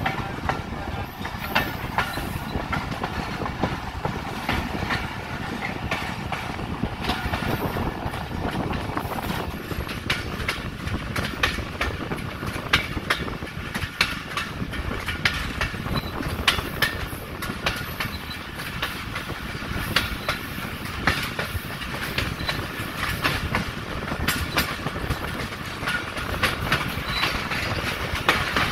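Pakistan Railways passenger train running, heard from an open coach window: a steady rolling rumble of the wheels on the rails, with many sharp clicks and clacks as they cross the rail joints.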